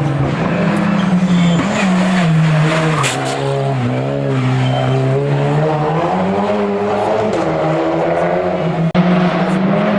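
Hill-climb race car engine running hard: its note falls to a low about four seconds in, then climbs back and holds high.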